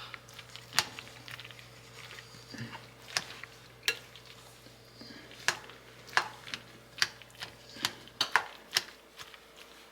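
A utensil clinking against a cooking pot in a dozen or so sharp, irregular knocks. A steady low hum runs underneath and stops about eight seconds in.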